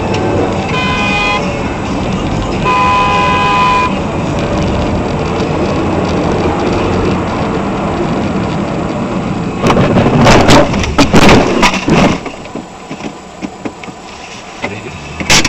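A car horn honks twice, a short blast then a longer one, over steady traffic noise. About ten seconds in comes a run of loud crashing impacts lasting about two seconds, typical of a car collision; then it goes quieter, with one more sharp bang near the end.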